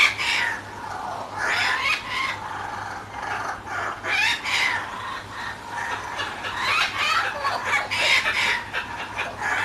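Kookaburras calling: a series of harsh, cackling call bursts that come every second or two, from young birds and their parents, which are asking for food.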